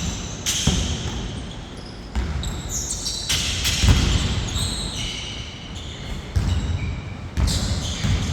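Basketball bouncing during play on an indoor court, about six irregular thuds ringing in a large hall, with short high squeaks between them.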